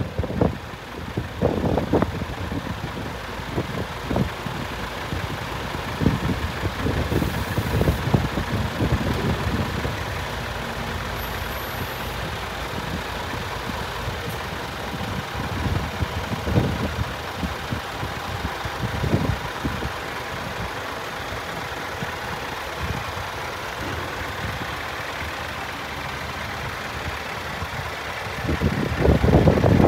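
Scania G500 tipper truck's diesel engine running, its rumble rising and falling unevenly and growing louder near the end.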